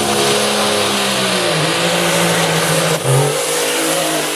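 Pulling tractor's engine running hard under load, loud and steady over a heavy rush of noise, its pitch sagging slightly and dipping briefly about three seconds in.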